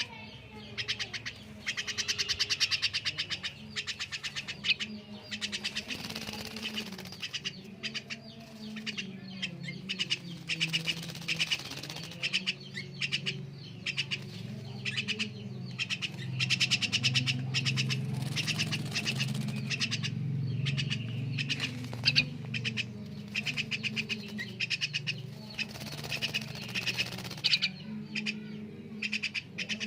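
Javan myna calling in trains of rapid, rattling chatter all through, with wing flapping as it bathes. A steady low hum lies underneath.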